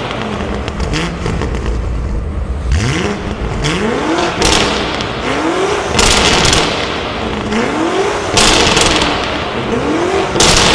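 The twin-turbo V8 of a Mansory-tuned BMW M5 with a sport exhaust accelerating hard. The engine note climbs in pitch again and again, dropping back as it shifts up through the gears. Loud rushing surges come several times.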